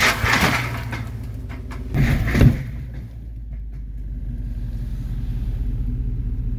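1994 GMC Yukon snowplow truck's engine running with a steady low hum. Brief louder noisy bursts come at the start and again about two seconds in; after that the hum holds steady and slowly grows louder.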